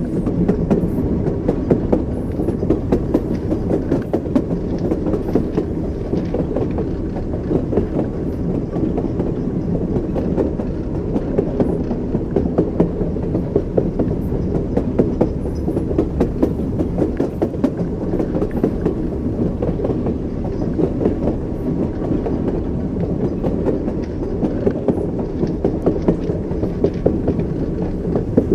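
Train wheels clicking over rail joints in a repeating clickety-clack, over a continuous low rumble of a moving railway carriage.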